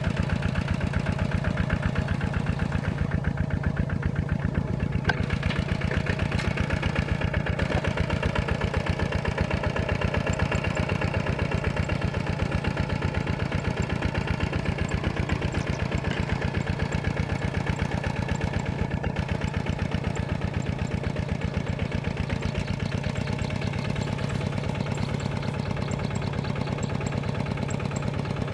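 Tractor diesel engine running at a steady speed, an even rapid chugging that holds unchanged throughout.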